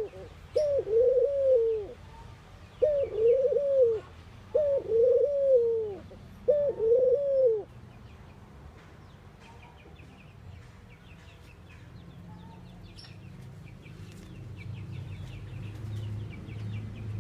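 Ringneck dove cooing: four loud, low coos repeated about every two seconds, stopping about seven and a half seconds in. After that, small birds chirp faintly and a low rumble grows toward the end.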